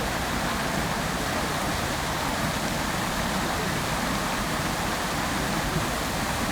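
Outdoor fountain's water jets splashing down into the basin: a steady, even rush of falling water.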